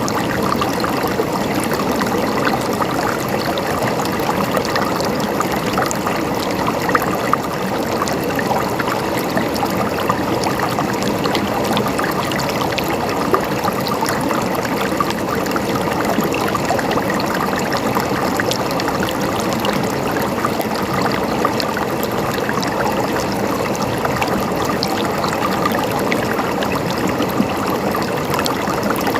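River water flowing and splashing over rocks, a steady rush with many small splashes and gurgles.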